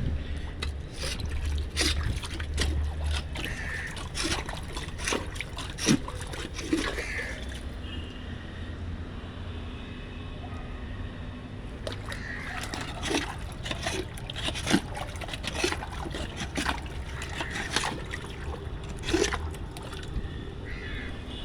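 Rainwater sloshing and splashing on a flooded flat roof, with irregular sharp knocks and clicks throughout.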